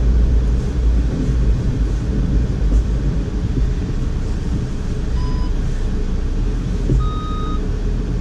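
2012 Audi A4 Quattro running with a steady low rumble while it is driven in deep snow. Two short electronic beeps from the car sound about five and seven seconds in, the second one longer and slightly higher.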